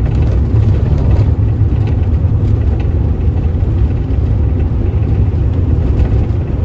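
Cabin noise of a 1984 VW Westfalia camper van under way: a steady low rumble of engine and road, with faint light rattles over the top.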